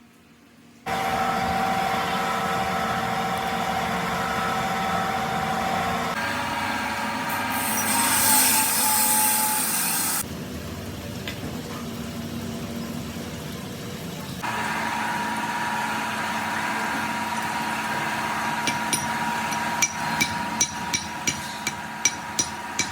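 A workshop machine running with a steady hum and whine, its sound changing abruptly several times. Near the end comes a quick run of sharp metallic taps, about two or three a second.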